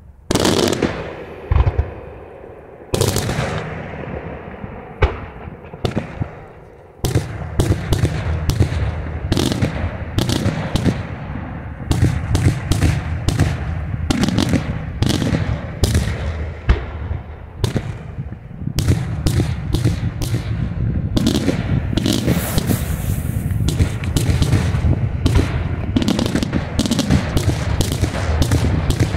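Daytime fireworks: aerial shells bursting overhead in sharp bangs. A few separate reports come in the first seconds, then from about seven seconds in a dense, rapid barrage of bangs over a continuous rumble.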